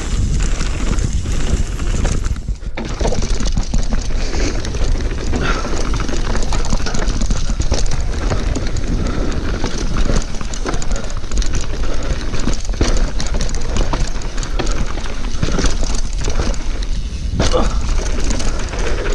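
Mountain bike descending a rough trail: wind buffeting the microphone in a heavy rumble, with the bike rattling and clattering over roots and rocks in many short knocks.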